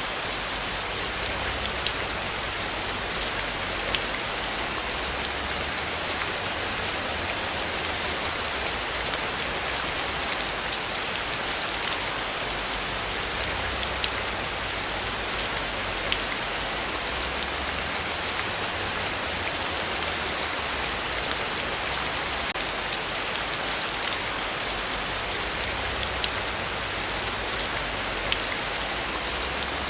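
Heavy rain falling steadily, a dense hiss of drops with close individual drips ticking through it, and a low rumble beneath that swells and fades.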